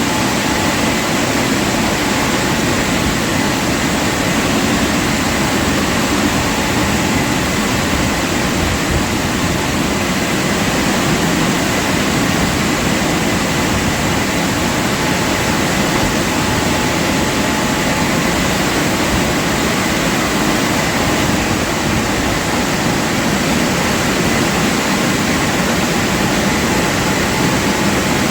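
Automatic car wash machinery running steadily, heard from inside the car: a constant loud rush of noise with a faint steady whine.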